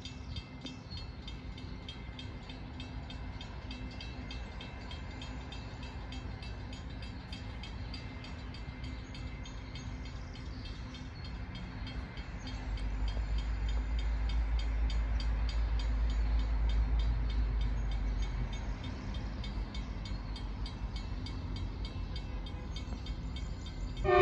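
Distant diesel passenger train approaching the station: a faint steady rumble with a low hum. A deeper low rumble swells about halfway through and fades several seconds later.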